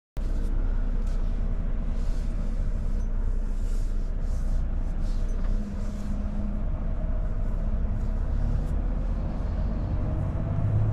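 Volvo FH truck's diesel engine and road noise heard from inside the cab while driving: a steady low rumble.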